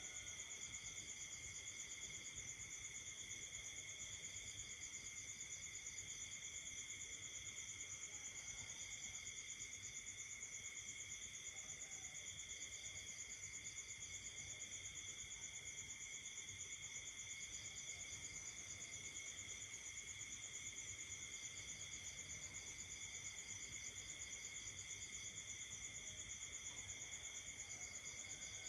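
Night chorus of crickets and other insects: several steady high trills at different pitches run together, and another pulsing trill joins in bouts of a second or two every few seconds.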